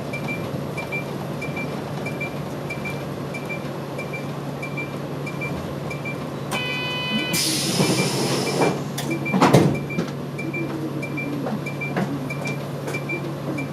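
Bus idling at a stop with a steady hum and a ticking signal relay about twice a second. About halfway through a door chime sounds, followed by a burst of air hiss and a loud thump as the pneumatic door shuts, before the bus departs.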